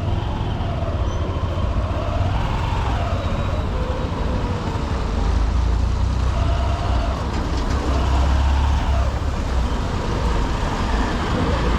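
Honda SP125 single-cylinder commuter motorcycle riding in heavy city traffic: its engine runs steadily under a constant low rumble of wind on the helmet-mounted microphone, with the surrounding traffic noise of other vehicles.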